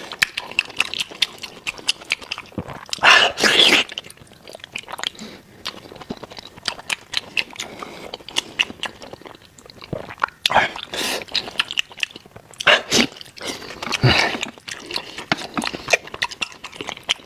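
Chewing and biting of meat: a steady run of short mouth clicks and smacks, with a few louder bursts of chewing spread through.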